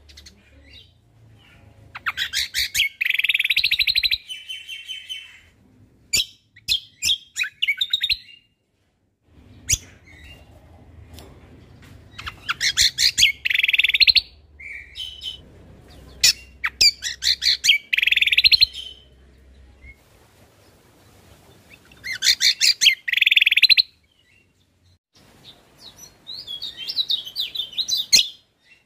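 Cucak kombo (kecial kombok) songbird singing: phrases of rapid chirps and trills, a second or two long each, repeated every few seconds with short pauses between them.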